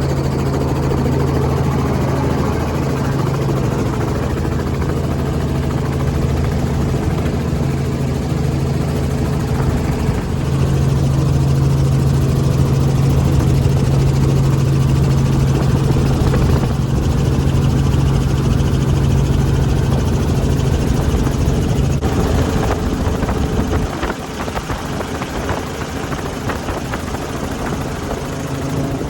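Helicopter running with a steady, loud droning hum. About three quarters of the way through the steady tone drops away, leaving a rougher, somewhat quieter rumble.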